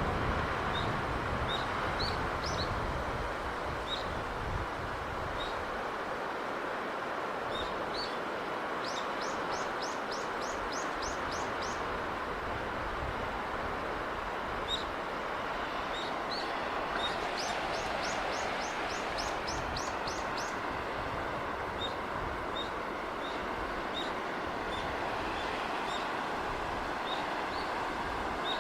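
Steady rushing of sea breeze and surf, with small birds chirping every second or two and two quick trills of about eight high notes each, one near the middle and one a few seconds later.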